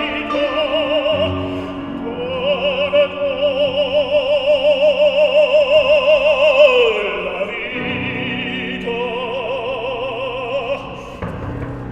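Operatic singing with wide vibrato over instrumental accompaniment. The voice holds a long high note from about two seconds in, slides down near the middle, then sings again more softly.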